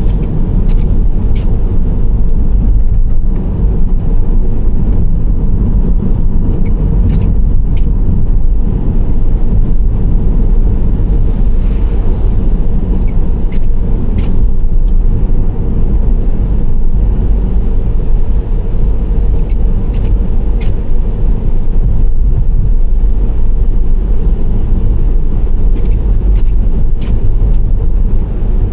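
Steady low road rumble of a Nissan Serena C25 minivan driving at speed, tyre and engine noise blended together, with a few brief, faint clicks here and there.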